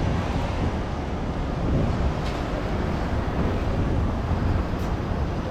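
Steady city street traffic noise: a continuous low rumble with no distinct events.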